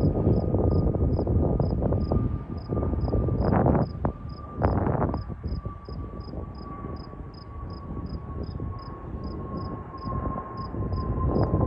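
Airbus A330-300 jet airliner with Rolls-Royce Trent 700 engines flying over: a steady engine rumble under a whine that slowly falls in pitch.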